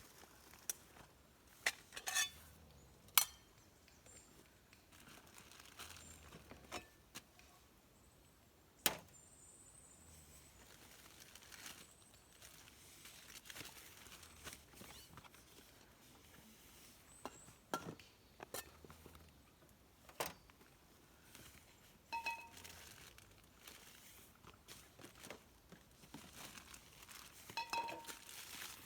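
Camp gear being handled: sporadic sharp clicks and light clinks, a few with a short ring, over faint crinkling of plastic packaging.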